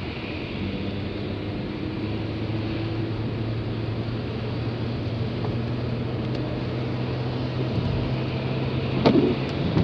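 Car cabin noise while driving: a steady low engine and road hum under a noisy hiss. About nine seconds in there is a brief louder knock.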